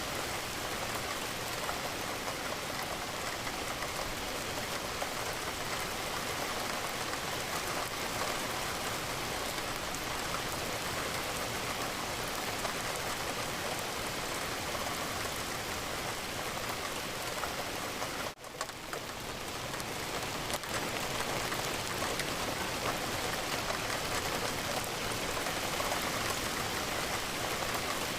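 Steady rain falling against a window, an even hiss of drops. It drops out for a moment about two-thirds of the way through, then swells back in.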